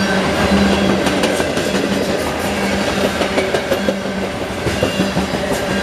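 Covered hopper cars of a Union Pacific freight train rolling past at speed: a steady rush of steel wheels on rail with a low hum, and clicks as the wheels cross rail joints.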